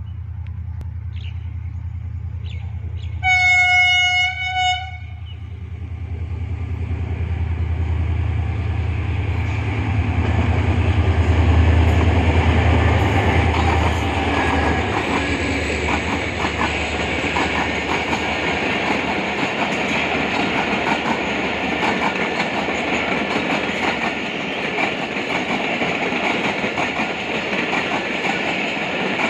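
Pakistan Railways HGMU diesel-electric locomotive sounding a horn blast about three seconds in. Its engine rumble then builds as it comes up and passes, loudest about twelve seconds in. Passenger coaches follow, rolling by with continuous wheel clatter over the rail joints.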